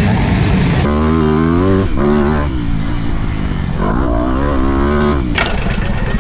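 Motocross bike engines revving, rising and falling in pitch through several surges over a steady low engine rumble, with a sharp crack about five seconds in.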